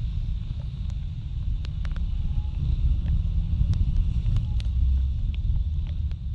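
Wind and road rumble from a Kymco Like 125 scooter ridden in the rain, with a steady hiss and scattered sharp ticks over the top. The rumble swells a little in the middle.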